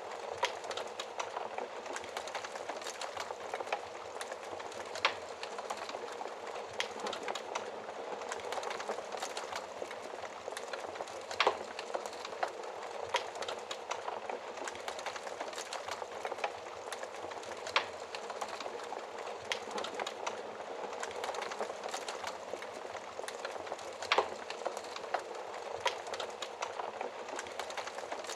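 Fire in a fireplace crackling steadily, with sharp pops scattered throughout. The loudest pops come about 11 seconds in and again near 24 seconds.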